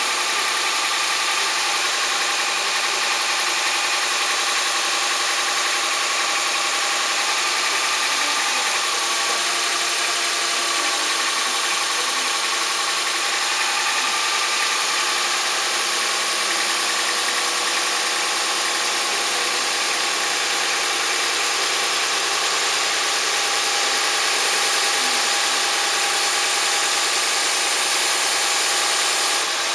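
A machine running steadily with a dense hiss and a few steady hum tones, unchanged throughout.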